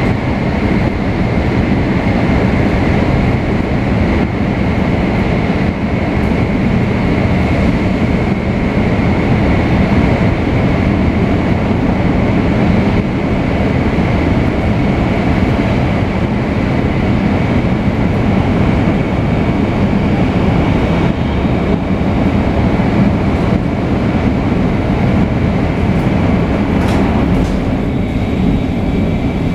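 Shinkansen 500 series electric train running along the line, with its Toshiba GTO-VVVF traction drive. A steady rumble of wheels and motors carries a steady high whine held at one pitch. A few short clicks come near the end.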